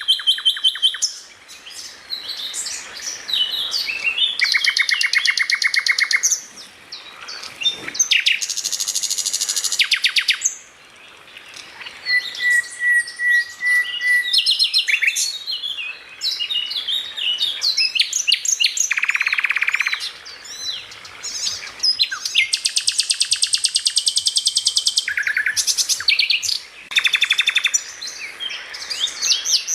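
Songbird song, nearly continuous: varied high chirps, fast rattling trills and buzzy phrases, with one long even whistled note partway through and short pauses between phrases.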